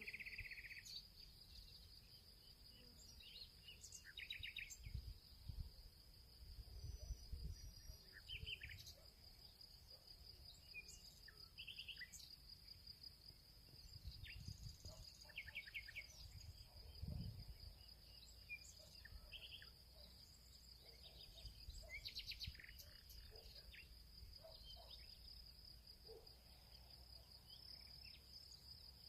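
Faint field ambience: a steady high insect trill, like crickets, runs throughout, with scattered short bird chirps and trills over it and a low uneven rumble underneath.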